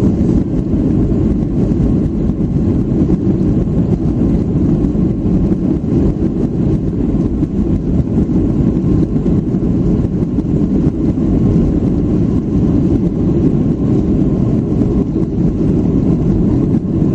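Airliner cabin noise: a steady, deep, even rumble of engines and rushing air heard from inside the passenger cabin.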